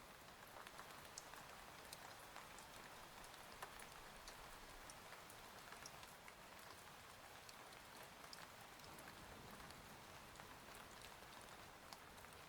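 Faint, steady rain with many small, scattered drop ticks over an even hiss.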